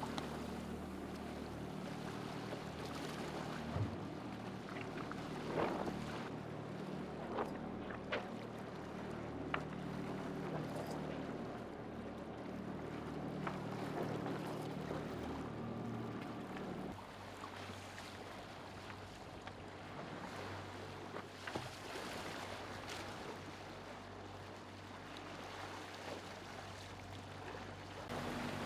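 Offshore racing sailboat under way: water rushing along the hull and wind, with a steady low hum underneath and a few short sharp knocks from the boat.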